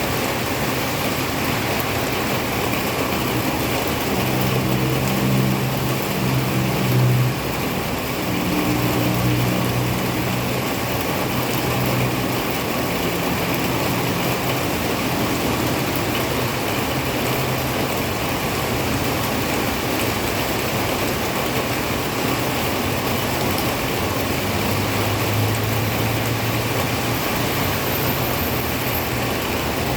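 Heavy rain falling steadily, with the low hum of a motor vehicle's engine rising and fading a few seconds in and again near the end.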